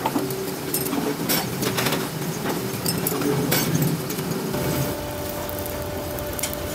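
Workshop noise: scattered sharp metal clinks and knocks over a steady machine hum, with a steady tone coming in about two-thirds of the way through.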